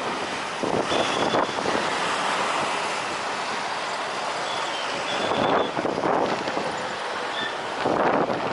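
Strong wind buffeting the microphone in gusts, over a steady rush of jet aircraft noise. The gusts surge about a second in, again near six seconds and near the end.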